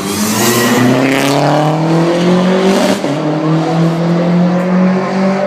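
A sports car's engine accelerating hard, its pitch climbing steadily, with a brief break about three seconds in like a gear change before it pulls on.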